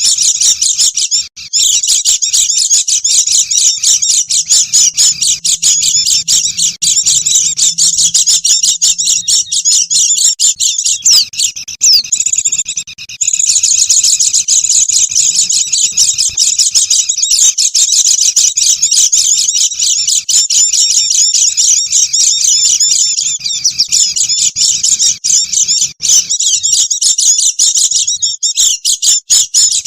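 A flock of white-eyes (pleci) chattering nonstop, many rapid high-pitched chirps overlapping into a loud, busy stream with a brief lull about halfway through. It is a lure call, the sound of a noisy flock used to draw wild birds in.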